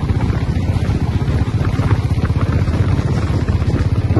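Motorcycle engine running steadily while riding, a low rapid rumble.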